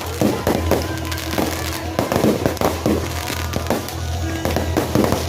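Fireworks going off in a rapid, irregular string of bangs and crackles, several a second, with music playing underneath.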